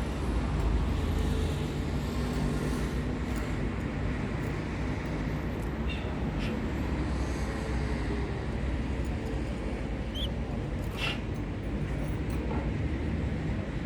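A steady low rumble, with a few brief, faint high chirps from a canary scattered through it.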